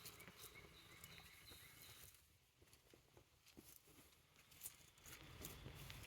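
Near silence: faint woodland ambience with a distant bird call of thin high tones in the first second and a half, and scattered soft ticks.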